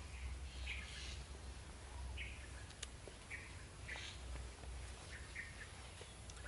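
Small birds chirping: short, high calls, one every half second to a second, over a low, steady rumble.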